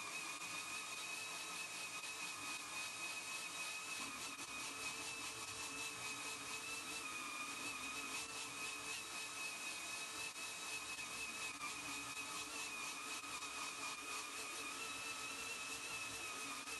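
Electric power tool running steadily, its motor giving a constant high whine over a rushing hiss.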